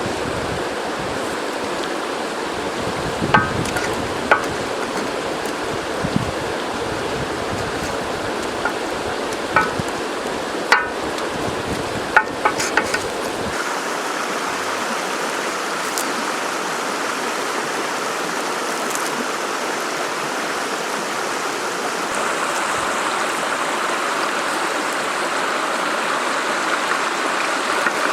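River water flowing steadily over rocks. A few sharp clicks or knocks sound in the first half, and about halfway through the low rumble falls away, leaving the higher rushing of the water.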